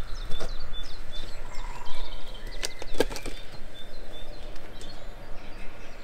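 Small wild birds chirping and singing in short repeated notes, with a few sharp clicks, the loudest about three seconds in.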